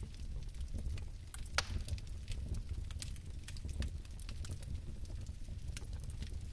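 Fire crackling: sharp, irregular pops and snaps over a low, steady rumble, with one louder pop about one and a half seconds in.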